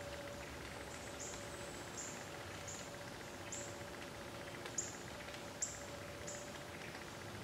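A small bird's high, thin call notes: about eight short chirps at uneven spacing, over faint woodland background and a faint steady hum.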